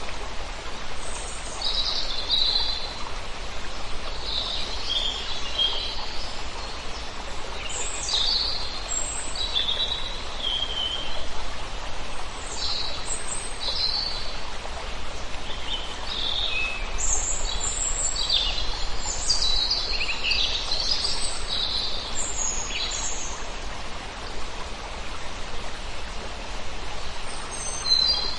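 Many birds chirping, short high calls overlapping and scattered throughout, over a steady background hiss.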